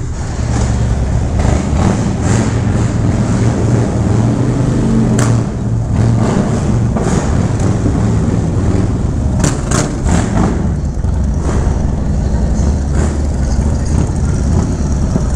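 Harley-Davidson touring motorcycle V-twin engines running at low speed, a steady low rumble as the bikes idle and pull away together, with a few short sharp clicks about five and ten seconds in.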